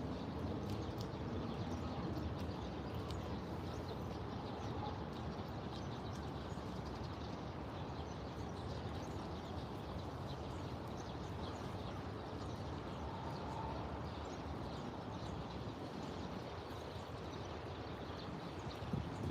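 Park ambience: a steady background hum with faint, scattered bird chirps.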